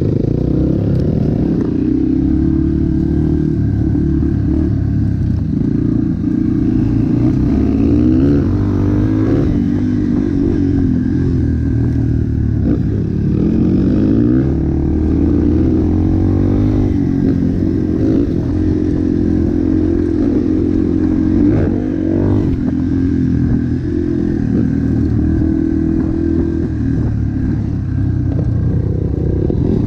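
Motocross bike engine running hard, its pitch rising and falling again and again as the throttle opens and closes.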